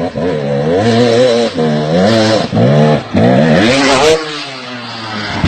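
Motorcycle engine revving up and down several times, its pitch rising and falling in quick swings. About four seconds in it drops to a quieter, steadier running.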